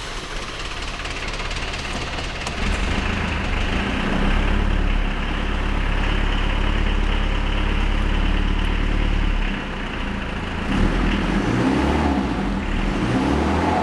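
Mitsubishi Pajero's Astron 4D55 four-cylinder turbo diesel idling just after a cold start, not yet warmed up. The note settles about two and a half seconds in, then dips and turns uneven from about ten seconds.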